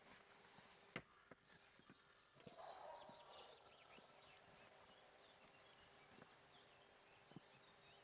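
Near silence, with a few faint scattered knocks and clicks and a faint steady high tone.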